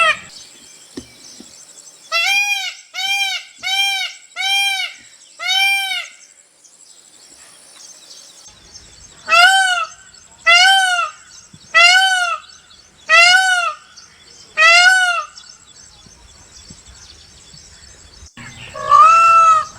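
Peacock (Indian peafowl) calling: two runs of about five short, loud calls each, evenly spaced about a second apart, with a few seconds of quiet between the runs and another call starting near the end.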